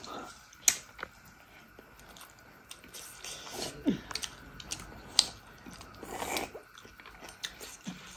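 Mouth sounds of eating rice and curry by hand: chewing, with sharp wet smacks now and then, the loudest about a second in and about five seconds in.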